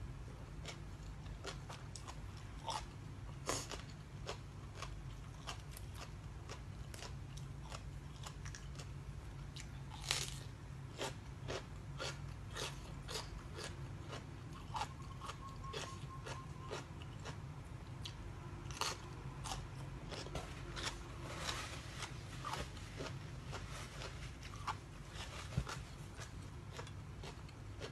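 A person biting and chewing crisp food, with irregular crunches and clicks throughout over a steady low hum.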